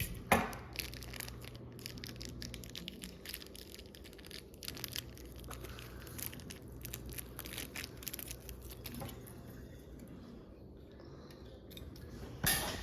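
Small plastic model-kit parts being handled and fitted together: scattered light clicks, ticks and rustles, with a louder knock just after the start. Near the end comes a sharp clatter as a part drops.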